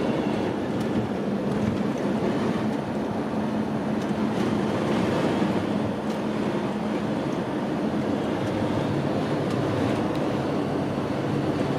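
Steady road and engine noise of a moving campervan, heard from inside the cab, with a low hum under an even rush.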